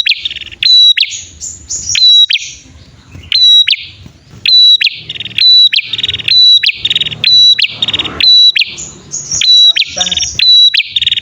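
Prenjak (prinia) male and female calling together. Loud, sharp clipped notes repeat one to two times a second, mixed with buzzy rattling trills: a lure recording of prinia calls.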